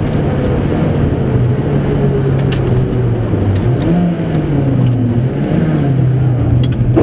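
VW Golf III 16V rally car's four-cylinder engine under hard driving, heard from inside the cabin, its note falling and rising several times as the driver lifts, shifts and accelerates again through a bend.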